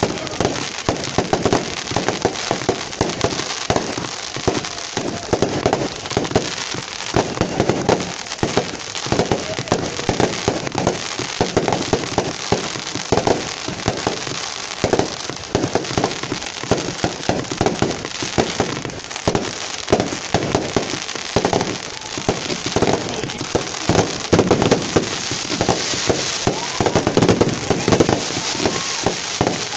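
Huge wood bonfire burning fiercely, with a dense, unbroken crackle of sharp pops and snaps.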